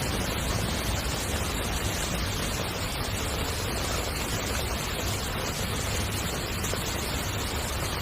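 Heavy rain falling on a tent, a steady, even hiss without let-up.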